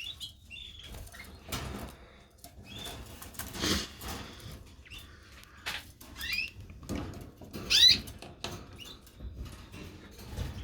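Canaries in a breeding cage fluttering their wings and giving short chirps, with the loudest chirps about six and eight seconds in.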